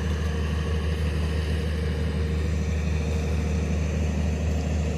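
Steady low engine drone from work machinery running some way off, which is taken for dredging work. It holds an even pitch and level throughout.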